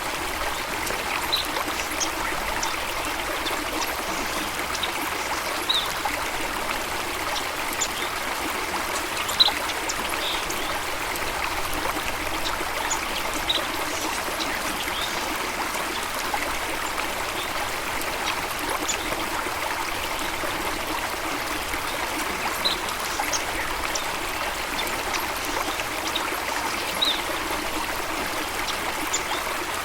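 Steady running water, a continuous even rush, with brief high bird chirps scattered through it every second or two.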